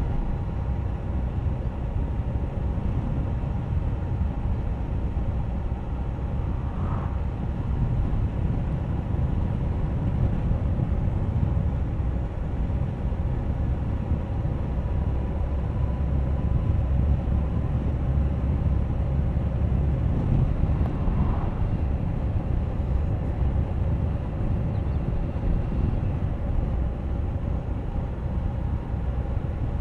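Suzuki GSX1250FA motorcycle's inline-four engine running steadily under way, under a dense low rumble of riding noise.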